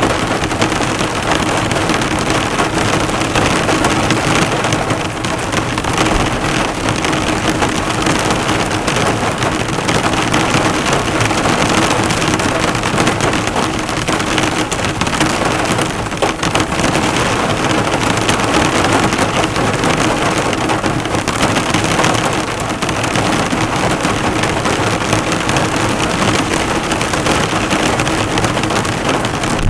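Heavy rain falling hard and steadily on a car, the drops bouncing off the hood, heard from inside the car.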